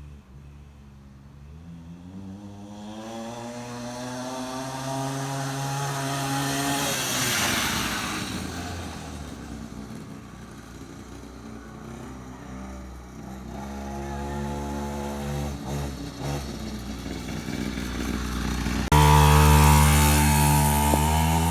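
Small dirt bike engines, a pit bike and an 80cc, revving hard as they race. The engine note climbs in pitch and grows louder over the first seven seconds, then drops away as a bike passes. A second climb follows, and about nineteen seconds in the engine sound suddenly becomes much louder and closer.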